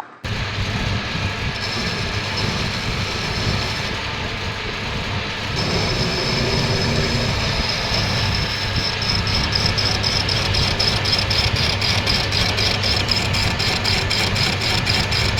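Metal lathe running, with a steady motor hum. A high-pitched whine comes in about a second and a half in, grows stronger partway through, and pulses rapidly through the second half.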